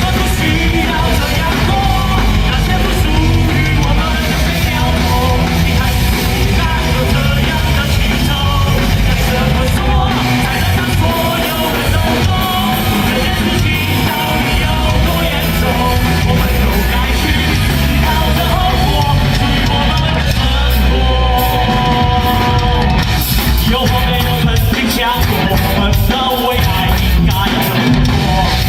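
Rock band playing loudly, with shouted singing over a heavy low end of drums and bass.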